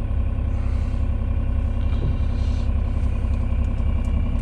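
Mini excavator's small diesel engine idling steadily, with no change in speed.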